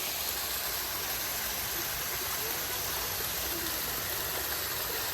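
Steady rushing of water from a stream or small forest waterfall, an even hiss that holds unchanged throughout.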